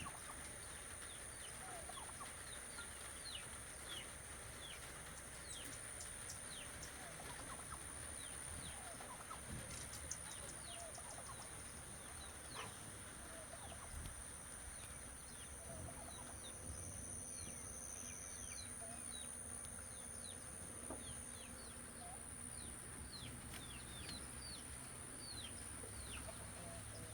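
Faint evening outdoor ambience: frequent short, falling bird chirps over a steady high-pitched hum.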